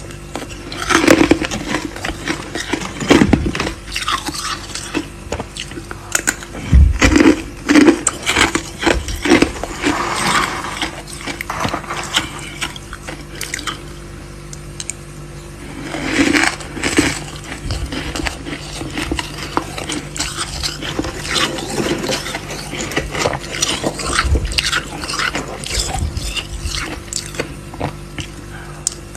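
Freezer frost scraped and crunched close to the microphone: irregular crisp crackles and scrapes in uneven clusters, over a faint steady hum.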